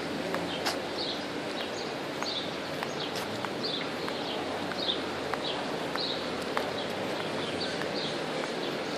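A bird repeating short, falling chirps about once a second, over a steady wash of background noise with a few light clicks.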